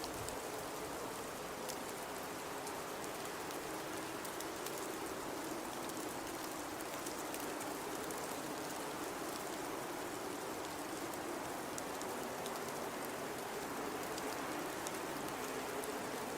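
Steady blizzard wind hissing, with a low note that wavers slowly up and down and a scatter of faint fine ticks.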